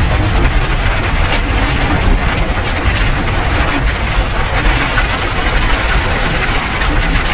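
Steady heavy rain: a loud, dense, even hiss with a low rumble underneath.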